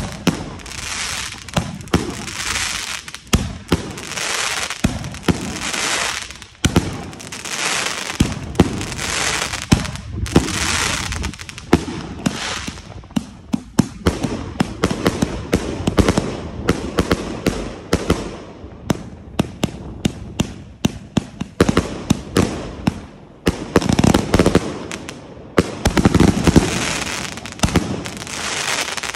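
Consumer firework cake firing shot after shot: a sharp bang about every second, each followed by a crackling hiss of breaking stars. Around the middle the shots give way to a run of fast, dense crackling, and the big crackling bursts come back near the end.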